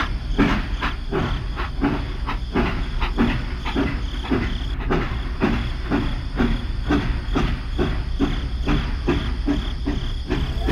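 Toy battery-powered steam locomotive running along plastic track with a rhythmic chuffing sound, about three puffs a second, over a steady motor hum.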